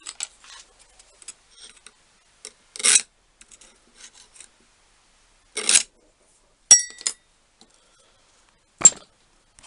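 Marking out on a metal workpiece: a few short, separate scraping strokes, with a sharp metal clink that rings briefly a little past the middle.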